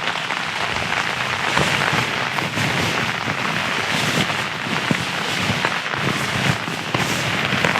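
Rain drumming on a tent's flysheet, heard from inside the tent: a steady hiss dotted with many small crackling taps of drops hitting the fabric.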